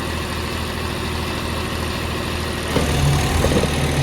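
Diesel tractor engine running steadily. It gets louder about three quarters of the way in, when a second steady low note joins it.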